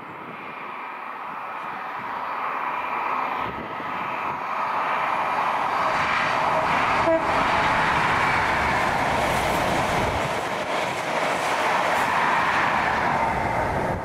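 A diesel High Speed Train, a Class 43 power car leading Mark 3 coaches, approaching and passing at speed. The engine and wheel noise grows over the first several seconds into a steady loud rush as the coaches go by, with a brief sharp click about halfway.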